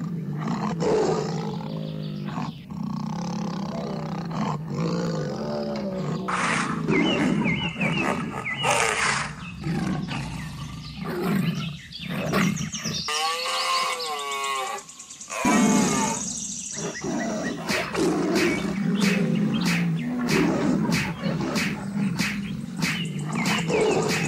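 A run of wild-animal sound effects, big-cat roars among them, mixed with other animal calls that follow one another with short breaks.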